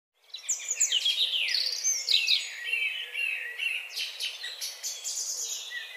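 A chorus of small birds chirping and twittering, with many quick overlapping calls, several of them sweeping down in pitch.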